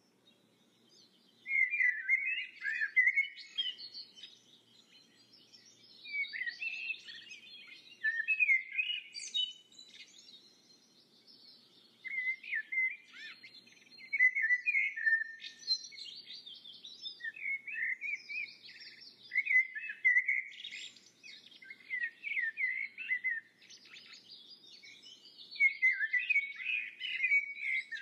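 Birdsong: small birds chirping in short phrases of quick, high notes, a new phrase every couple of seconds.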